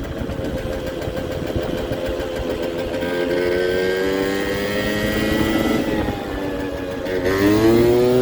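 Kymco Super Fever ZX 50cc two-stroke scooter engine running unevenly. Its pitch climbs slowly from about three seconds in, sags and stumbles near six seconds, then rises sharply near the end as it suddenly picks up. The owner finds the mid-range doesn't work and suspects a fuel or carburettor fault.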